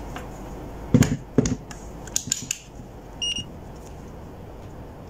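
A few sharp clicks and knocks of handling, then one short high electronic beep about three seconds in, typical of a digital multimeter.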